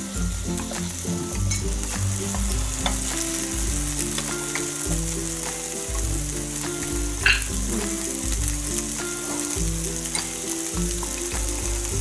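Beef slices sizzling steadily on a tabletop electric grill pan, with light clicks of chopsticks turning the meat and one sharper clink about seven seconds in. Low steady tones shift in steps underneath.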